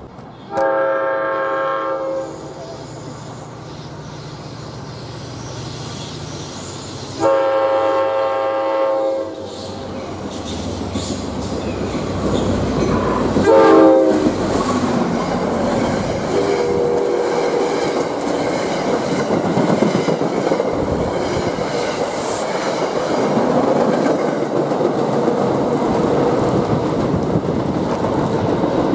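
NJ Transit diesel locomotive's horn sounding two long blasts, a short one and a last long one, the pattern of a grade-crossing warning, as the train comes in. The locomotive and its coaches then run past at speed, with loud rolling wheel-on-rail noise and clatter that builds and stays loud.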